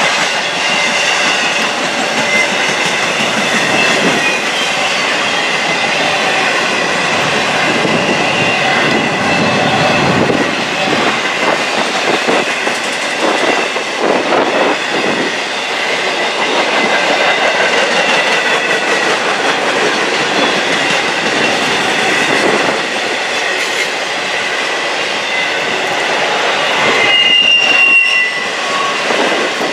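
Intermodal freight cars rolling past close by: steel wheels running on the rail with clickety-clack over the joints and a steady high squeal from the wheels. A brief sharper squeal comes near the end.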